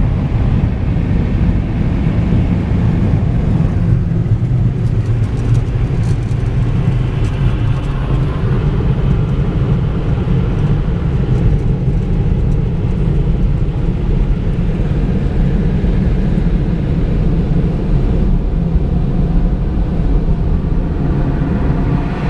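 Car running steadily, a low rumble of engine and road noise heard from inside the cabin.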